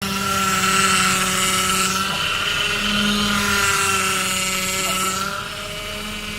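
Saab B205R four-cylinder engine running with a steady whine from the power steering pump, which the owner suspects is failing. A higher hiss swells and fades twice, and the sound gets a little quieter after about five seconds.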